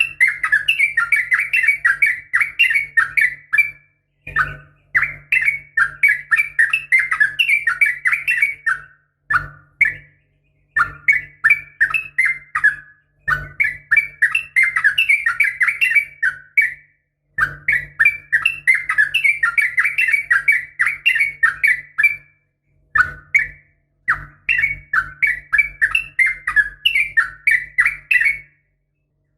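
Yellow-vented bulbul (trucukan) giving rapid bubbling chatter in repeated bursts of a few seconds each, with short pauses between them. The uploader presents it as a female's call to a male, used to set caged males singing.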